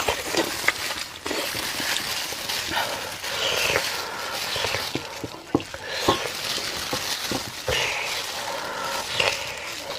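Close-miked eating sounds: a person chewing, smacking and slurping soft braised meat, with many small wet clicks.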